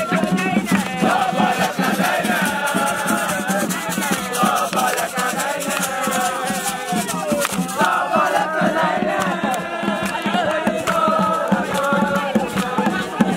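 A group of voices singing a chant together, over a fast rattling percussion beat.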